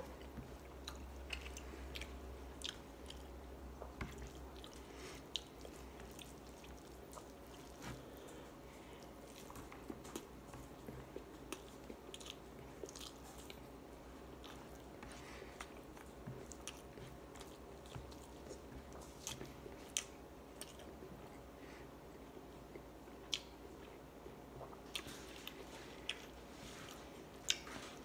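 Close-up eating sounds of a person eating rice, fish and chicken by hand: chewing and small wet mouth clicks, with fingers squishing and gathering rice on a plate, heard as scattered short clicks.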